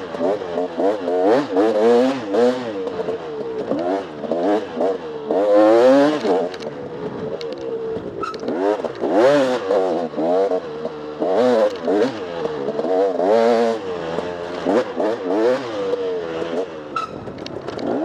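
Off-road motorcycle engine revving up and falling back again and again, a surge about every second, as the throttle is worked over rough ground.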